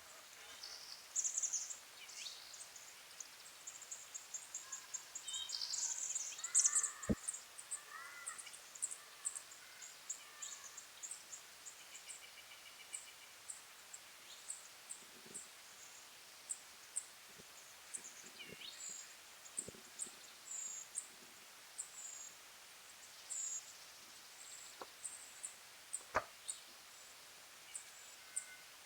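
Red-winged blackbirds calling: many short, high chips and whistled notes repeated throughout, busiest about six seconds in. Two sharp knocks stand out, one about seven seconds in and one near the end.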